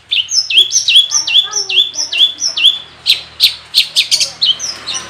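Long-tailed shrike (cendet) singing: a run of about seven quick repeated notes, each dropping from high to a short level whistle, then a series of sharp dry ticks about three a second.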